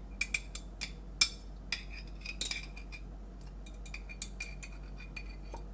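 Metal fork clinking against a jar and the crock as pepperoncini peppers are speared and set in place: a series of light, irregular clinks with a short ringing note.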